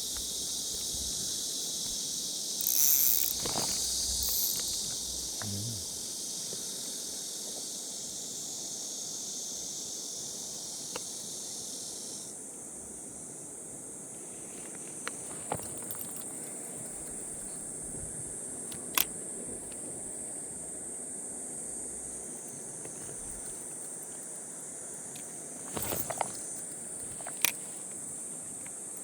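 Steady high-pitched chorus of summer insects, part of it dropping out about twelve seconds in so the band thins, with a brief louder rustle around three seconds and a few scattered sharp clicks.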